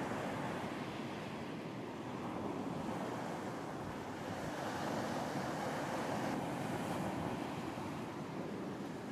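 Ocean surf washing onto a beach, a steady rush of breaking waves that swells a little toward the middle.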